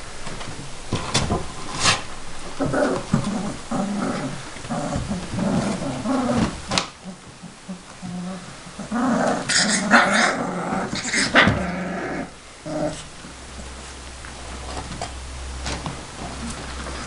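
Saint Bernard puppies growling and whimpering in two stretches of calls, with a few sharp knocks between.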